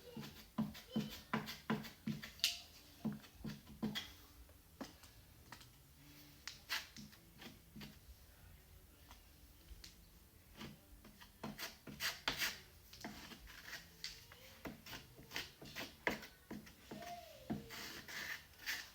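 Joint compound being spread and scraped over a mesh-patched hole in drywall: many short scraping strokes in quick runs, with pauses between them.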